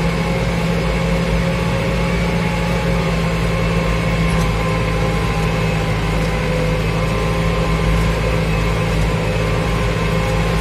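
Farmtrac 675DT tractor's diesel engine running steadily under load while pulling a plough through wet, heavy soil.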